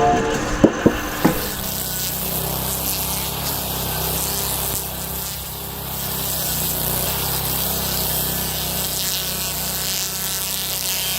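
Engine-driven cutting machine running steadily and grinding into wood, with a buzzing cut over a low engine hum, after a few sharp knocks about a second in.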